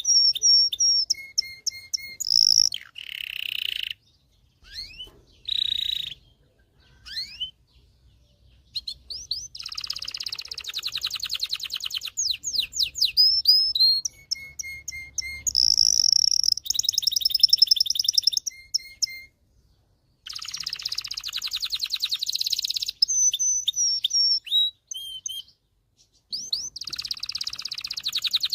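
Male domestic canary singing: a string of song phrases, each a fast trill, run of quick sweeping notes or held whistle, with short pauses between phrases.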